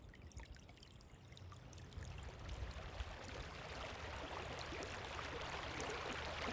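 Small stream trickling, fading in about two seconds in and then running steadily.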